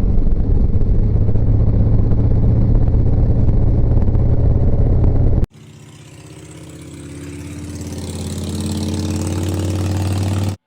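Harley-Davidson V-twin motorcycle engine running under way, with wind on the microphone and a strong low hum. It cuts off suddenly about five and a half seconds in. A second engine sound with several steady pitch lines then fades in, growing louder until it stops just before the end.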